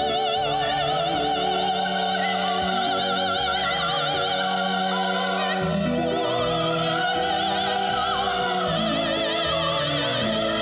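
A song with a solo singer holding long notes with wide, even vibrato over orchestral accompaniment.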